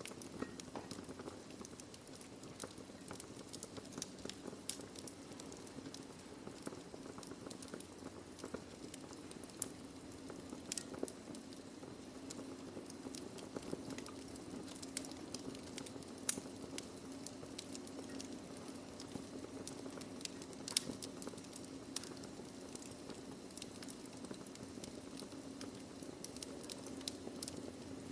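Wood fire burning in a fireplace: a steady low hiss with frequent small crackles and pops of burning logs, a few sharper pops standing out.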